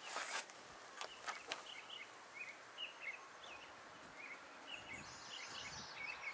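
Small birds chirping intermittently over faint outdoor noise, with a few light clicks and knocks in the first second and a half.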